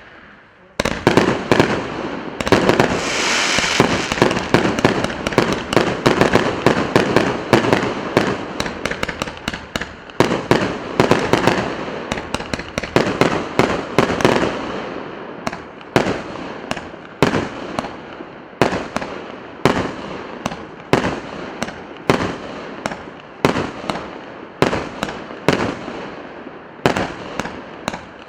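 A consumer fireworks cake battery firing: a dense volley of shots and bursts with crackle about a second in, then a steady run of single bangs, roughly one or two a second.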